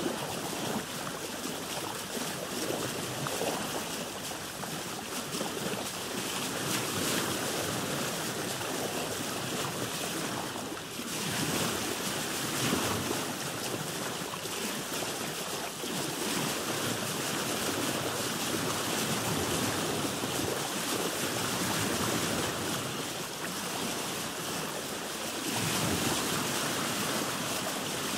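Open-sea waves rushing and washing, heard from aboard a boat, with wind. The rush swells and eases every few seconds, with a brief lull about eleven seconds in and a stronger surge near the end.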